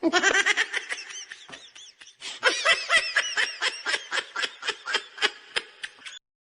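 High-pitched laughing sound effect: rapid pulses of giggling in two bouts, the second starting louder a little over two seconds in and trailing off.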